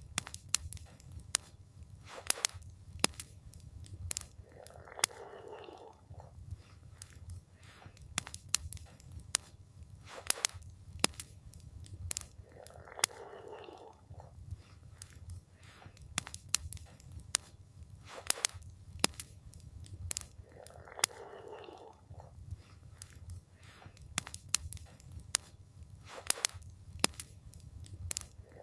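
Campfire crackling, with frequent sharp pops over a low steady rumble. A short, soft rushing noise comes back about every eight seconds.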